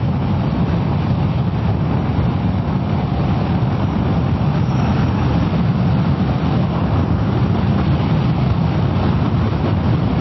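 Steady wind rush and road noise while riding a Kawasaki ER-6f motorcycle at an even speed, picked up by a microphone on the rider, with the engine running under it.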